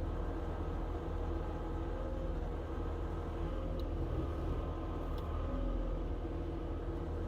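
Skid steer's diesel engine running steadily at a constant speed.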